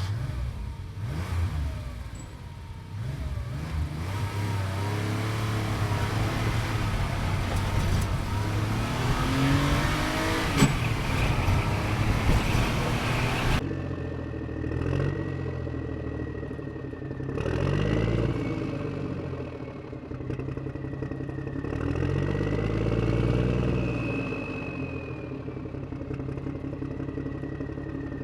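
Vehicle engine running and revving, its pitch rising and falling again and again. About halfway through the sound changes abruptly, and after that a thin, wavering high whine runs alongside the engine.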